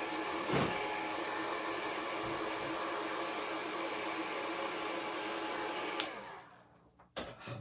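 Handheld hot-air dryer running steadily, drying freshly applied paint on a craft piece. It is switched off with a click about six seconds in and winds down, followed by a couple of light knocks.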